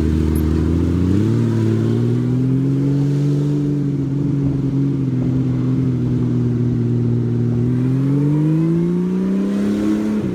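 Honda Valkyrie's flat-six engine pulling under way: its pitch rises about a second in, holds steady for several seconds, climbs again near the end, then drops sharply as the revs fall.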